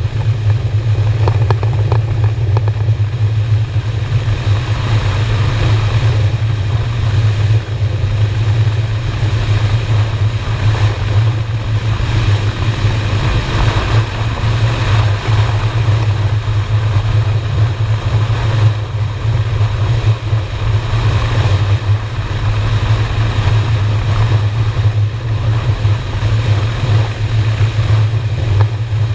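V-twin motorcycle engine running steadily at cruising speed, with wind noise over the microphone.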